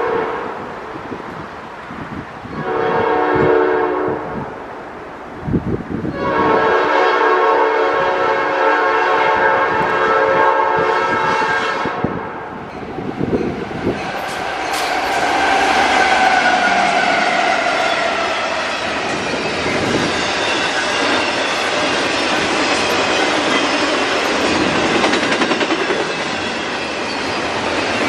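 Norfolk Southern double-stack intermodal freight train sounding its horn at a grade crossing: one blast ending just after the start, a second of about a second and a half, then one held for about six seconds. About 14 seconds in, the diesel locomotives pass close by, with a falling engine tone, and the stack cars follow with a steady loud rumble and wheels clicking on the rails.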